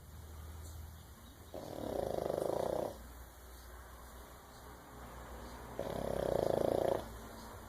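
French bulldog snoring: two loud snores about four seconds apart, each a little over a second long, with quieter breaths between.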